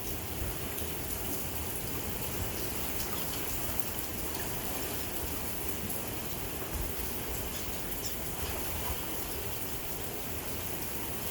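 Steady rain falling on the lagoon: an even hiss with scattered ticks of individual drops.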